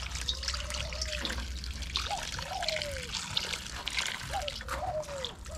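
Steady rain pattering and dripping, a dense spatter of small drops. Over it run several short tones, each about half a second long, rising and then falling in pitch, repeating every second or so.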